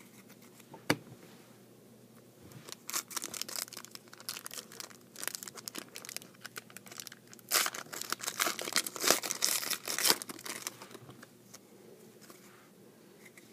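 Foil wrapper of a trading-card pack being torn open and crinkled by hand, in crackling bursts that are loudest in the middle and die away near the end.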